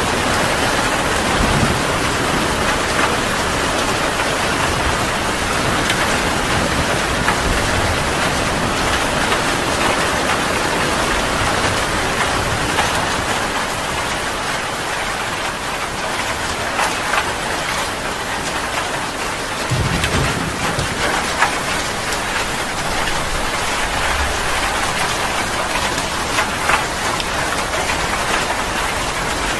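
Heavy rain falling steadily, with low rumbles of thunder, the clearest about two-thirds of the way through.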